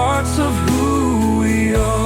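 Music from a song: a melody line that slides and wavers over a steady bass and sustained chords, with no sung words.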